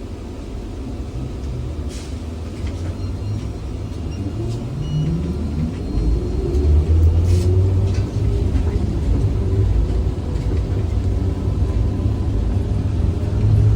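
ZiU-682 trolleybus on the move, heard from on board: a low running rumble with the electric traction motor's whine rising in pitch from about four seconds in as the trolleybus accelerates, then levelling off as the rumble grows louder.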